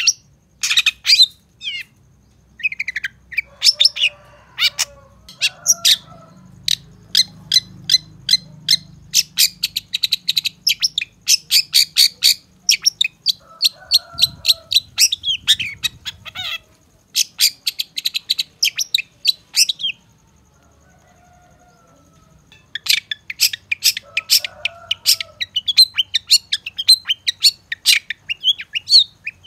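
Long-tailed shrike (cendet) singing: fast runs of sharp, high chirps, several a second, stopping for a couple of seconds about two-thirds of the way through and then starting again. Fainter, lower twittering comes in at times beneath.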